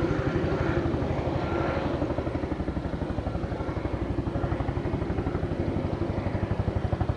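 Little Bird (MD 500-type) helicopter's rotors beating with a steady, even rhythm, dipping slightly then growing louder and more sharply pulsed toward the end.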